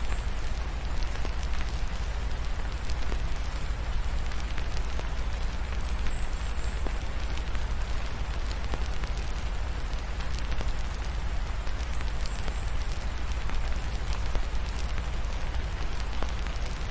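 Steady rain with a wood fire crackling in a fireplace, irregular sharp pops scattered over the hiss of the rain, and a constant low rumble underneath.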